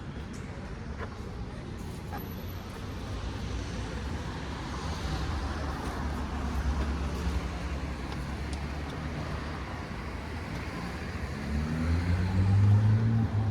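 Street traffic: low engine rumble that swells as a car passes, then near the end an engine revving up, its pitch rising, the loudest sound here.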